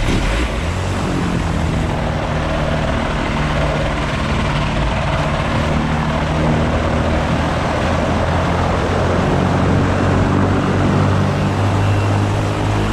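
Polaris FIB flying inflatable boat's engine and pusher propeller running hard just after starting. The engine note climbs over the first couple of seconds, then holds steady and loud.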